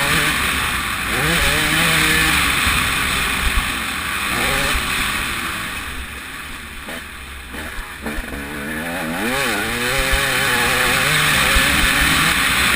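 TM 300 two-stroke motocross bike engine revving up and down as it is ridden, its pitch rising and falling with the throttle. The revs drop off for a couple of seconds around the middle, then climb again.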